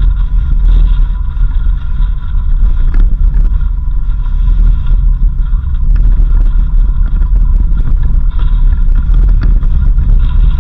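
Car driving on a dirt road, heard from on board: a loud, steady low rumble of engine and tyres, with scattered small knocks and rattles.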